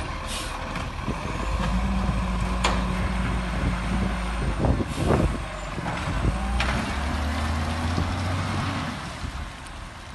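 Garbage truck engine running, its note stepping up and holding about a second and a half in, with a few sharp knocks and clanks around the middle. The sound fades near the end.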